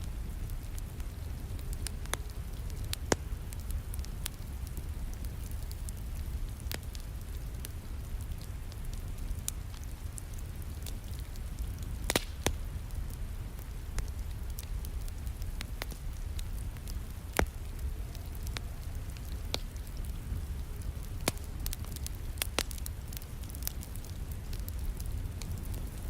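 Wood fire crackling, with irregular sharp pops scattered through it, over a steady low hiss of falling rain.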